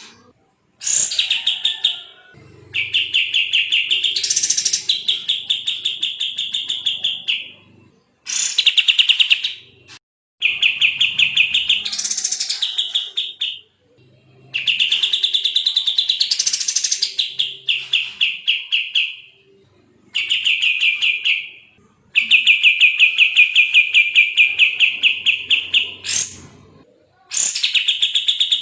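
Kapas tembak songbird singing in long bouts of fast, tightly packed high notes, each bout lasting one to five seconds, separated by short pauses.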